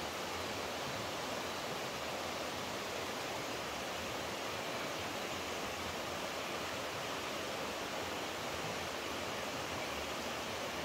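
Rushing water, a steady, even sound with no breaks or changes.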